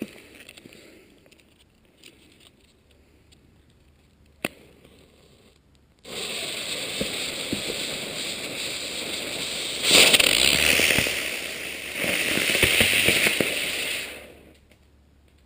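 Black Cat helicopter firework going off about six seconds in, spinning with a loud, steady hiss and crackle for about eight seconds. It surges louder twice, then dies away.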